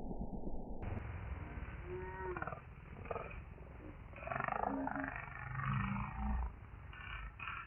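Muffled roaring and growling from about a second in, in uneven bursts with a brief gliding cry, muted and dull throughout.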